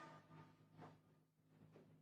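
Near silence: the echo of a reciting voice dies away at the start, leaving a faint steady low hum.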